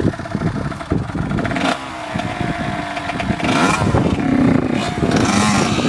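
Dirt bike engine running and revving, its pitch rising and falling in the second half, with a few clattering knocks.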